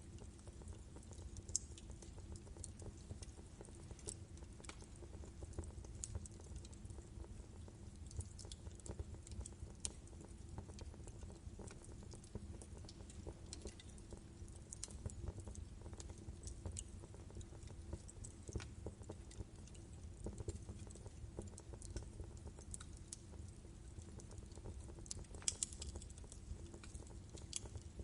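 Wood fire in a fireplace burning steadily, logs crackling with irregular small pops over a low rumble of flame, a brief flurry of sharper pops near the end.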